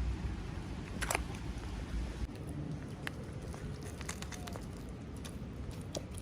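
Light clicks and taps from small objects being handled during an unboxing: one sharper cluster about a second in, then scattered lighter clicks. A steady low rumble runs underneath.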